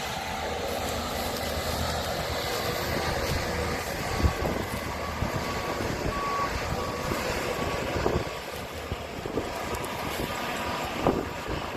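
Harvest machinery engines running steadily while a backup alarm beeps in a row of short, evenly spaced beeps in the middle. A few sharp thumps stand out near the middle and near the end.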